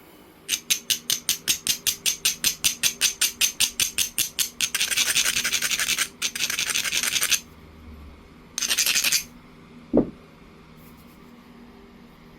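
Abrading stone scraped along the edge of a jasper piece, grinding the platform edges: quick back-and-forth strokes at about six a second for some four seconds, then a few seconds of steady grinding and a short final burst. A single sharp knock about ten seconds in.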